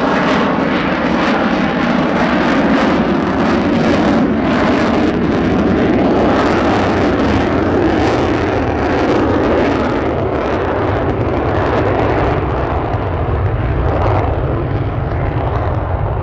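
Lockheed Martin F-35A Lightning II's single F135 turbofan, a loud steady jet roar as the fighter flies its display; the higher hiss in the roar fades over the last few seconds.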